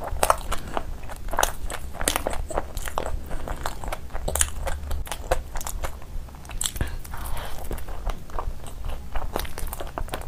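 Close-miked eating: a person biting and chewing soft bread and bun dipped in curry, with many short, irregular mouth clicks and smacks several times a second.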